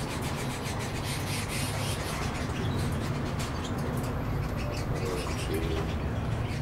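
Light summer-storm rain ticking and dripping over a steady low rumble, with birds chirping now and then.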